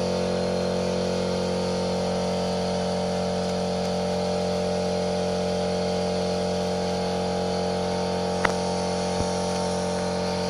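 Lada Priora car engine running steadily at an even speed, heard from inside the cabin. A sharp click about eight and a half seconds in, and a fainter one shortly after.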